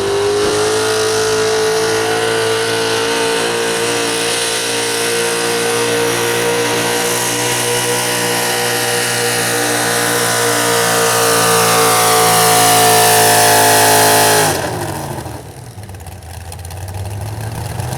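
Engine of a super stock 4x4 pulling truck at full throttle during a pull. The revs climb at the start, are held high and steady with a high whine riding over them, then are cut sharply near the end and fall to a low running sound.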